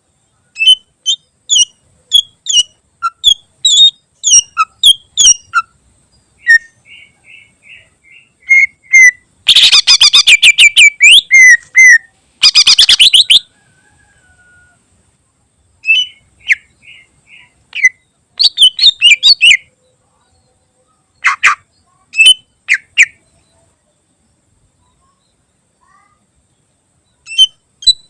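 Greater green leafbird (cucak ijo) singing a loud, varied song of quick sharp chirps and short whistled notes in phrases. About ten seconds in come two harsh rapid rattling bursts, with short silent pauses between phrases.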